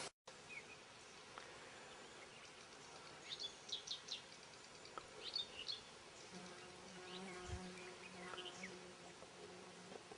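Faint riverside ambience: a flying insect buzzing steadily through the second half, with brief high chirps of small birds scattered throughout.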